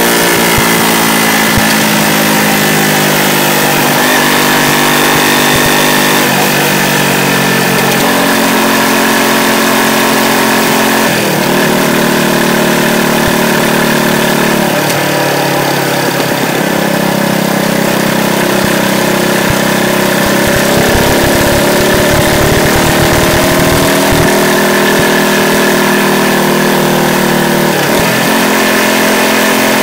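Yamaha YZF-R125's single-cylinder four-stroke engine running under way, picked up by a microphone mounted under the motorcycle. The engine pitch sinks slowly, then climbs again, with a few brief sharp dips in revs, over a steady rush of wind and road noise.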